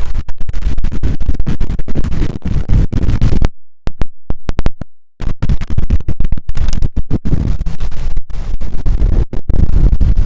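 Strong wind buffeting a phone's microphone, loud and choppy with constant crackling dropouts, cutting out almost completely for about a second and a half in the middle.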